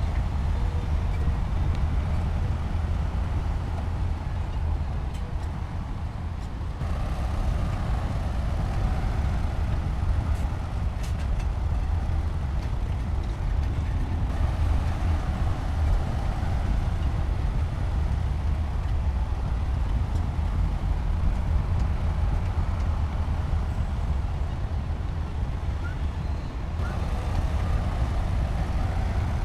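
Heavy diesel construction machinery running under load, a steady low engine rumble with a few faint clanks. The sound changes abruptly about seven seconds in and again near the end.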